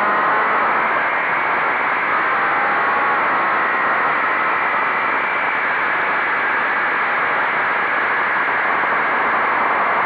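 Motorcycle riding at steady speed: a steady rush of wind noise over the microphone, with a faint engine whine under it.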